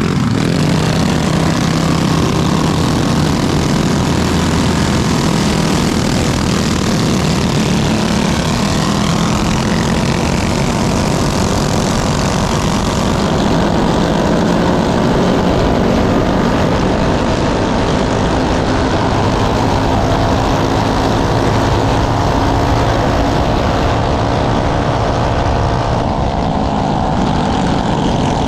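Small propeller engine running steadily at high power, with heavy rushing air noise over it.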